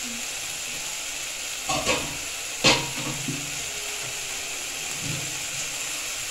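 Onion-garlic masala and potatoes sizzling steadily in oil in a kadai as they are fried down, with two short clatters about two and three seconds in, the second the loudest.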